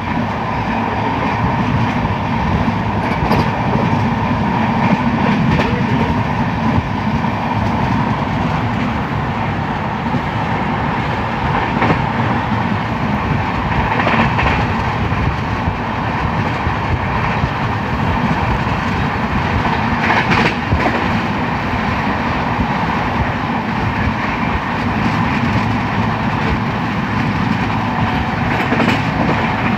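Train running at speed: a steady heavy rumble, with now and then the sharp clack of wheels over rail joints.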